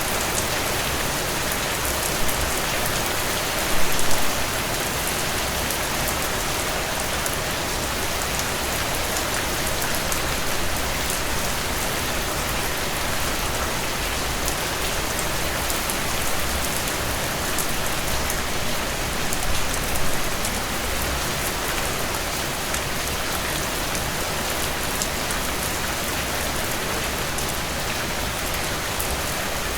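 Steady rain falling, an even hiss of many drops, with a few brief louder pops and spikes about 2 and 4 seconds in and again around 20 seconds.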